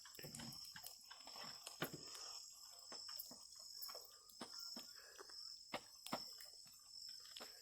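Faint steady chirring of crickets or other insects, with scattered light clicks and snaps throughout.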